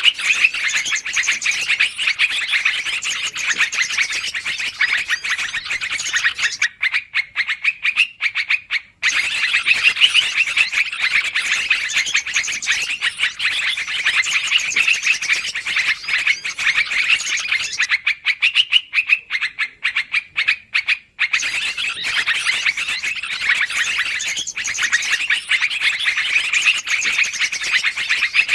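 Yellow-vented bulbuls (trucukan) giving noisy, rapid chattering calls, as used in a bird-trapping lure recording. The chatter is dense and continuous, broken twice by pauses of about two seconds where only scattered clicks remain.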